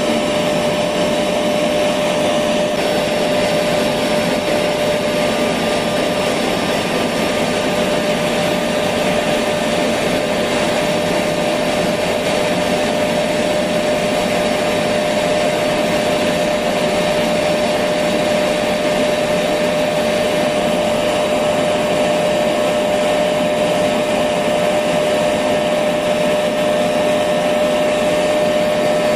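Electric vacuum cleaner running steadily, a constant whooshing hum with a steady whine, used as white noise to lull a baby to sleep.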